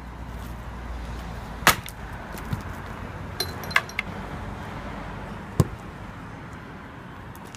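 Axe chopping firewood: two hard, sharp strikes, one about a second and a half in and one near the end, with several lighter knocks and clacks of wood between them.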